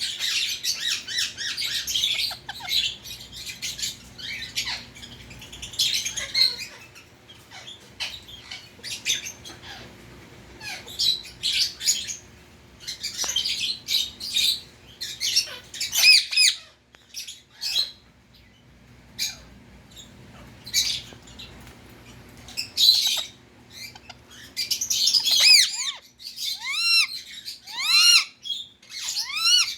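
Indian ring-necked parakeet calling: a busy series of sharp squawks and chirps, and near the end a run of repeated arched calls that rise and fall in pitch.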